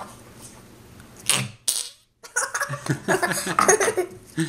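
Noise putty squeezed and pushed into its plastic pot, making short squelching, fart-like noises, with the pot being handled. The sound cuts out completely for a moment about two seconds in.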